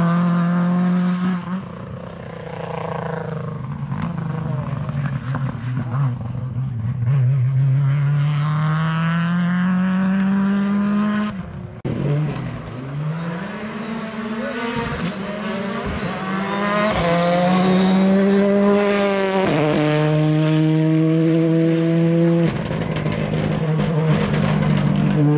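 Rally car engine running hard, its revs climbing and then dropping suddenly at several gear changes, with stretches held at steady revs.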